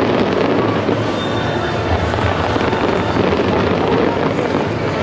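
A large fireworks display going off continuously: many shells bursting and crackling at once in a steady, dense wash of sound with no single standout bang.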